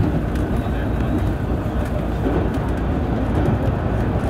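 Running noise of a JR Central 313 series electric train heard from inside its front cab while it travels at speed: a steady rumble of wheels on rail.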